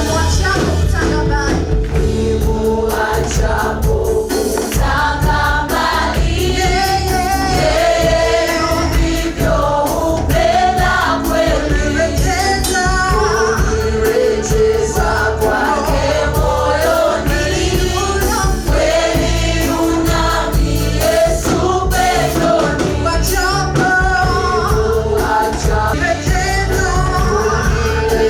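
Gospel choir singing a praise song with a band.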